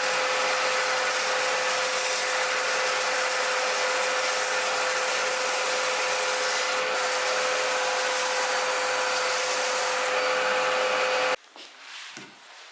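An electric power tool working wood, running steadily with a constant hum over a loud hiss, then cutting off suddenly near the end; a few faint knocks follow.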